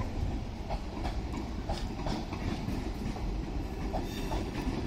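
Yellow electric commuter train moving slowly out of the station, with a steady low rumble and its wheels clicking over the rail joints about twice a second.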